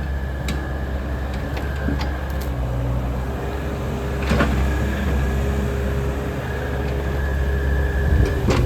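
Takeuchi excavator's diesel engine running steadily under load, with a faint steady hydraulic whine over it and a few sharp knocks about half a second, two seconds and four seconds in.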